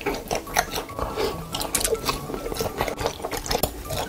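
Wet ASMR-style chewing and mouth-smacking of food, a dense run of quick, irregular squelchy clicks.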